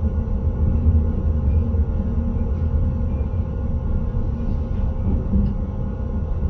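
Intercity train running on the track, heard from the driver's cab: a steady low rumble with a faint steady tone above it.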